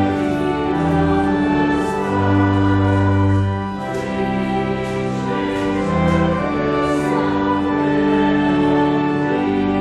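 Organ playing slow, sustained chords, with held bass notes that change every second or two.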